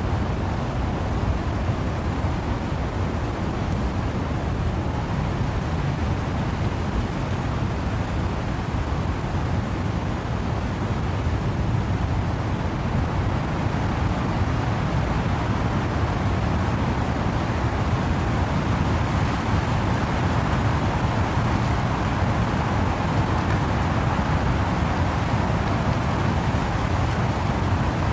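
Steady wind-driven rain with wind in the trees: a dense, even hiss over a deep rumble, with no single drops or gusts standing out, getting a little louder in the second half.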